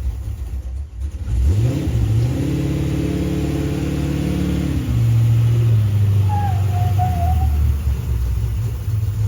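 Ford off-road race truck's engine revving: the pitch climbs about two seconds in, holds high for a few seconds, then drops back to a lower steady run. A brief wavering whistle-like tone sounds over it near the middle of the second half.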